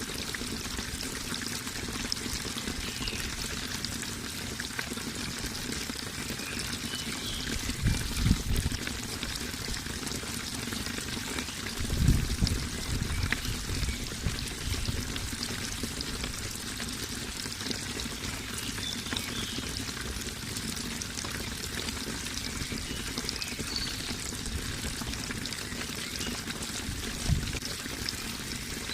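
Running water trickling and splashing steadily, with a few brief low rumbling surges about a third of the way in, near the middle and near the end.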